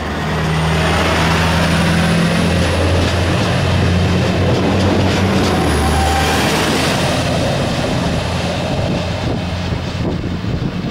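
Diesel Talent railcar passing close by and drawing away: a steady low engine drone over the rumble of wheels on rail, with a faint high whine through much of it. The sound eases near the end as the train recedes.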